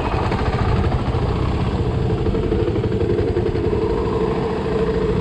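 Motorcycle engine running steadily, its note strengthening and rising slightly about two seconds in.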